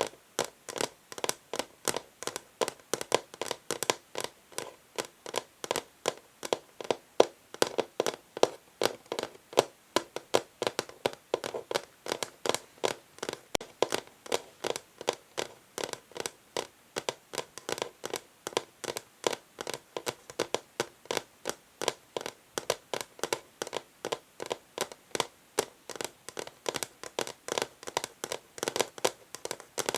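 Fingernails tapping on an old wooden chess board in a steady run of short clicks, about four a second.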